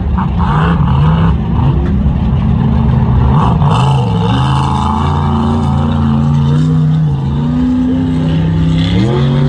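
Mega truck engine running hard, its revs stepping up and down several times as the throttle is worked.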